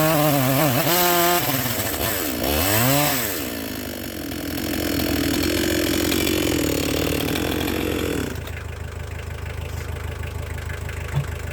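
Two-stroke chainsaw revving up and down, then cutting steadily through a log before dropping back to idle about eight seconds in. The chain is getting dull in dirty, muddy wood, so the cut throws dust rather than chips.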